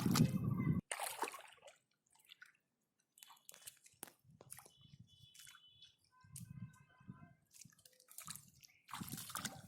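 Faint wet sounds of hands working in shallow muddy water: scattered drips, small splashes and squelches. A louder rush of noise in the first second cuts off suddenly.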